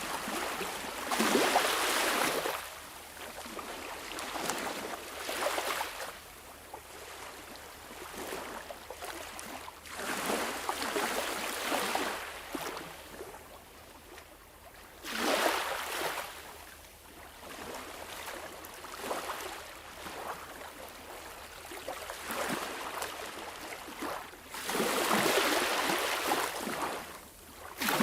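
Sea waves washing in and drawing back: rushing surf that swells and fades every several seconds, with softer lapping water between the surges.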